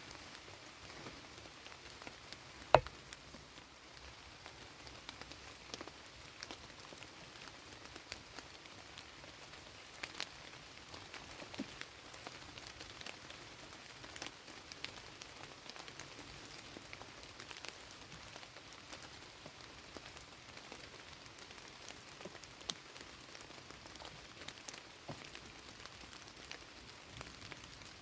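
Steady light rain with scattered drips ticking on surfaces. One sharp knock about three seconds in.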